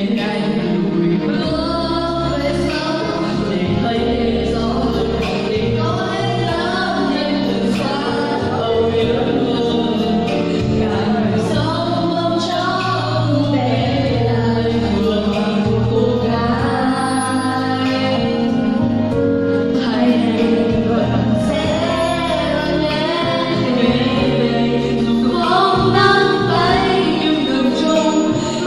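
Vietnamese love song sung over backing music with a steady bass line.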